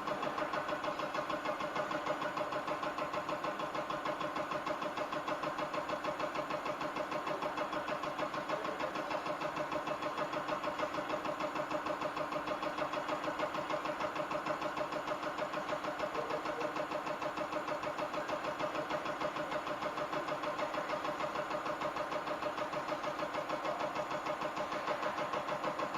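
Diesel injector test bench running a test on a Caterpillar C15 electronic unit injector driven by its cam box: a steady, rapid, evenly pulsing mechanical clatter.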